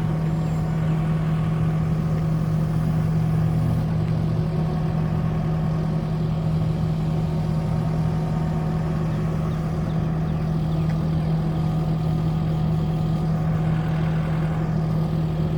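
Diesel engine of a Kubota SVL75 compact track loader running at a steady speed, its pitch and loudness unchanging.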